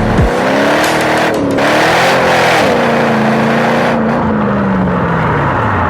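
Car engine revving, its pitch rising and falling several times and then winding steadily down near the end.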